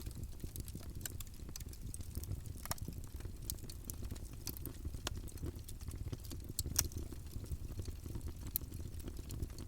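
Campfire burning with a steady low rumble of flame and irregular crackles and pops of the wood, one sharper pop about seven seconds in.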